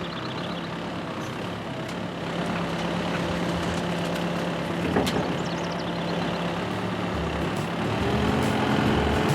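Heavy farm machinery engine running steadily while muck is loaded into a muck spreader, with a single sharp knock about halfway through. Music comes in near the end.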